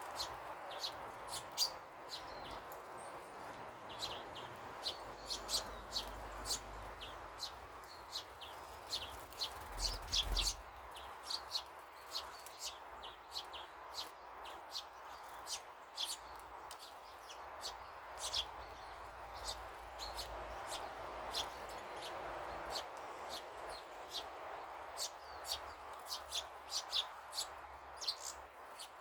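Small birds chirping, many short high calls coming several times a second throughout, over a steady background rush.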